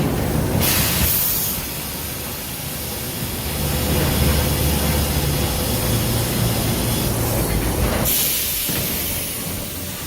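Sawmill log-handling machinery running with a low steady rumble, broken by two bursts of hiss: one about half a second in, the other near the end.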